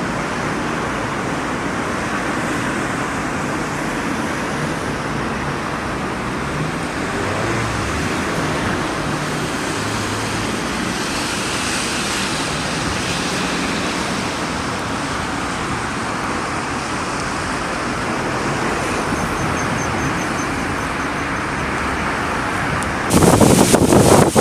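Steady road traffic noise with vehicles passing. About a second and a half before the end, wind suddenly starts buffeting the microphone with irregular loud thumps.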